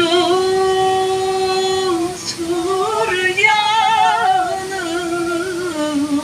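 A woman singing a slow melody: long held notes, some steady and some wavering with vibrato, linked by short ornamented slides.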